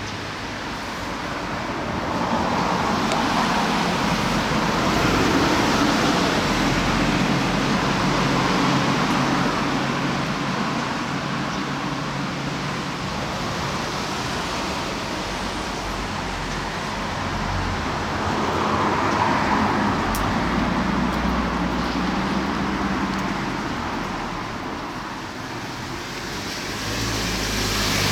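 Strong gusty wind rushing through rose bushes and foliage and buffeting the microphone, swelling and easing in long gusts.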